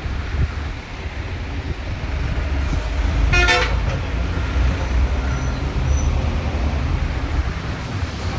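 Steady low road-traffic rumble, with a short vehicle horn toot about three seconds in.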